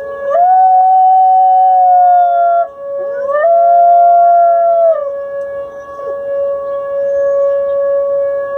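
Dog howling along to a steady ringing tone: two long howls, each rising quickly, holding for about two seconds and dropping off at the end.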